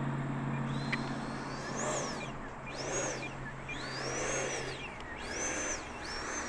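Electric ducted-fan RC jet flying, its high-pitched fan whine rising and falling in about five swells as it makes passes and the throttle changes. A steady low hum runs underneath and stops about five seconds in.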